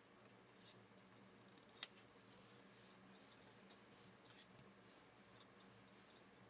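Faint rustling of cardstock being handled and pressed together, with a small click about two seconds in and another about four and a half seconds in.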